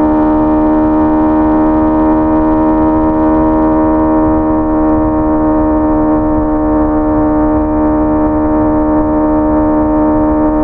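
Honda CBR650R's inline-four engine running at a steady, high engine speed, holding nearly one pitch throughout, with a low rushing noise underneath.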